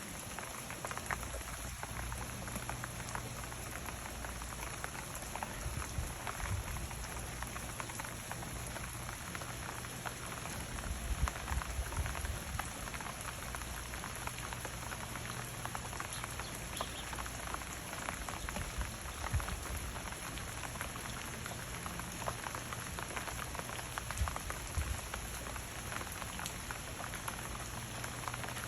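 Steady rain falling, a constant hiss dotted with many individual drops striking nearby surfaces. A few brief low rumbles rise out of it, the strongest about a third of the way in.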